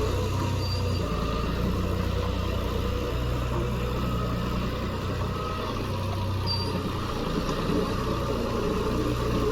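John Deere 5310 tractor's diesel engine running steadily with an even low drone.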